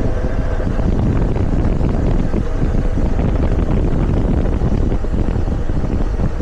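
Motorcycle riding along with heavy wind noise on the microphone and the engine running underneath.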